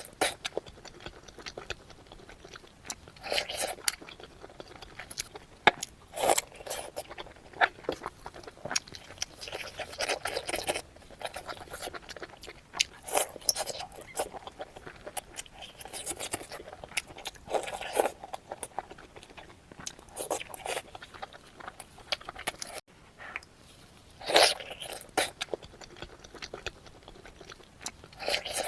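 A person biting and chewing a spicy pork roll: irregular crunching and wet chewing noises throughout, with louder bites near the start and about three-quarters of the way through.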